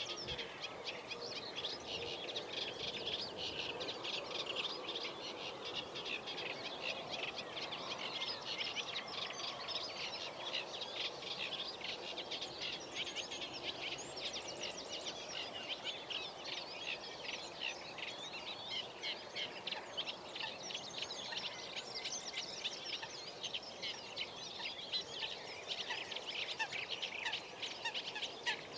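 Dense chorus of many wild birds singing and calling at once at ponds, a continuous mass of overlapping high chirps and song phrases with fainter lower calls beneath.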